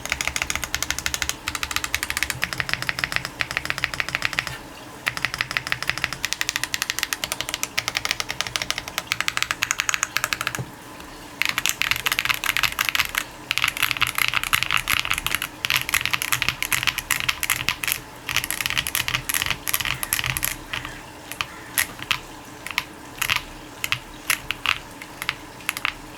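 Zoom65 aluminium-case mechanical keyboard with Rococo long-pole tactile switches on a polycarbonate plate, typed on in fast runs of keystrokes, pausing briefly twice and slowing to scattered single presses in the last few seconds. The bottom-out is loud and high-pitched, typical of long-pole switches.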